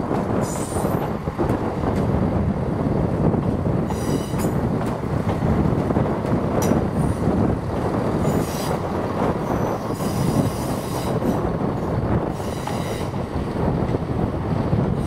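ScotRail Class 170 Turbostar diesel multiple unit moving along the track with a steady low rumble. Its wheels squeal high-pitched about six times, in short bursts every couple of seconds.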